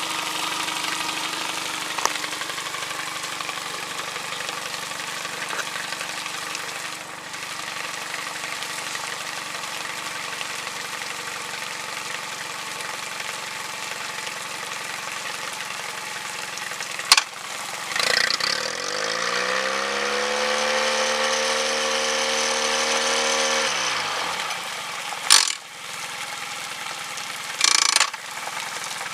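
Yamaha 25 hp four-stroke outboard running at idle with Salt Away flush going through its cooling system. About two-thirds of the way through it is revved up, held at higher revs for about five seconds, then drops back to idle, with a few sharp clicks around the rev-up and after it.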